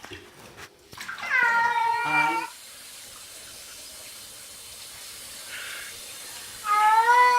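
A cat meowing twice: a long, wavering meow about a second in, and another near the end that drops in pitch as it trails off, with a faint steady hiss between the two.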